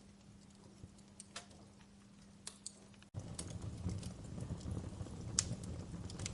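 Wood fire crackling in a fireplace, with scattered sharp pops and snaps. About three seconds in the sound cuts out for an instant and comes back louder, with a low rumble under denser crackling.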